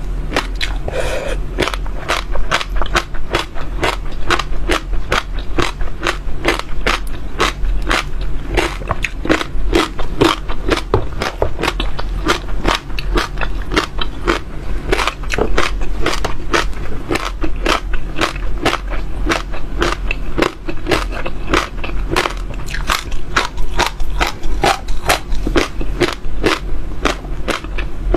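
Close-miked chewing of crunchy seeds: a steady run of sharp, crackling crunches, several a second, as the seeds are bitten and crushed, over a steady low hum.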